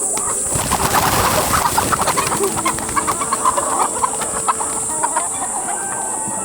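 Chickens clucking in a busy, choppy run, over a steady high-pitched hiss.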